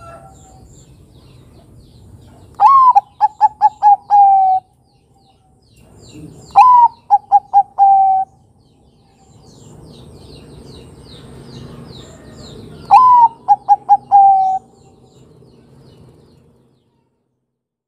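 Bangkok-type zebra dove (perkutut) cooing its song three times: each phrase opens with a rising note, then a quick run of short coos ending on a longer held one. Faint chirping of small birds is in the background.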